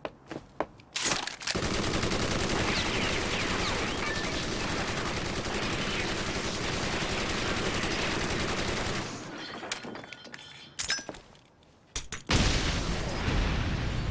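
Automatic gunfire as an anime sound effect: one unbroken hail of shots for about seven seconds. A few sharp cracks follow, then a deep rumbling boom near the end.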